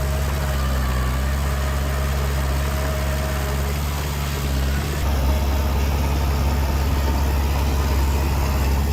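Heavy diesel engine of earthmoving machinery running steadily with a low, even drone, getting slightly louder about five seconds in.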